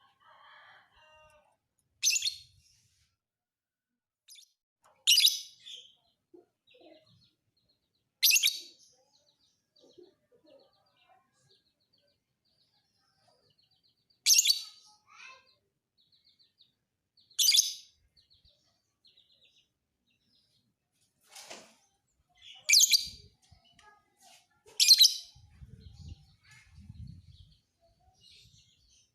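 Lovebird calling in short, high chirping bursts, about seven in all, spaced two to six seconds apart with faint twittering between.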